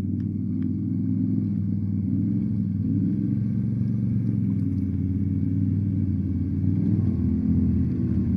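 ATV engine running at a low, fairly steady speed, its pitch rising and falling a little as the throttle changes.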